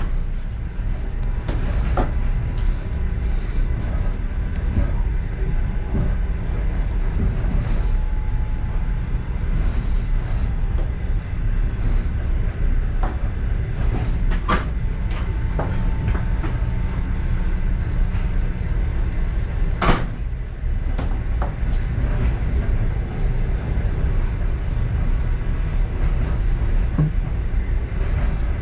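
Passenger train car running on the rails, heard from inside the rear of the last car: a steady low rumble with scattered sharp knocks and rattles. The loudest knocks come right at the start and about twenty seconds in.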